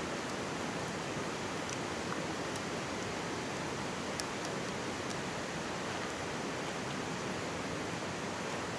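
Mountain stream babbling steadily, with a few faint crackles from a wood campfire.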